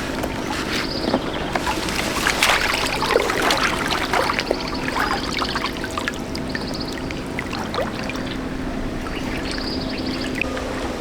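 Water splashing and pouring, busiest in the first half, over a steady hum, with short high trills recurring now and then.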